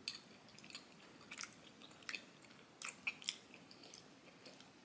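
People chewing mouthfuls of ginger-cookie ice cream sandwich: faint chewing with scattered mouth clicks, a few louder ones in the middle.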